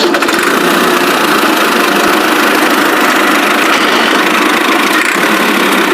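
Steady engine idling sound, thin, with little bass.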